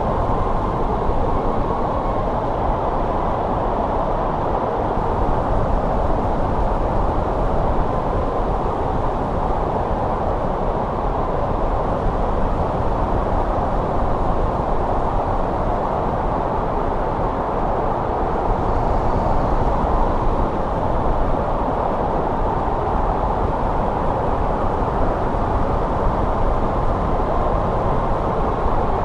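Steady winter wind blowing, an even low rushing with a faint whistle in it.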